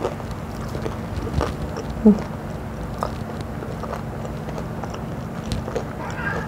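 A person chewing a fried crab rangoon in a crisp wonton wrapper, with scattered small crunches and a brief hummed "mm" about two seconds in. A steady low hum sits underneath.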